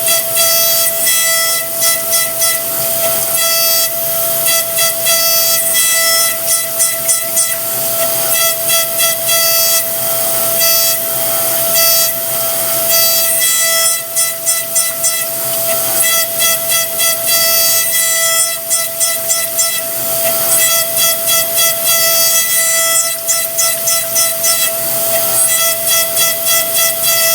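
Versamill 5X200 dental milling machine grinding an e.max lithium disilicate ceramic block: a steady high spindle whine over a hiss, pulsing several times a second as the tool works.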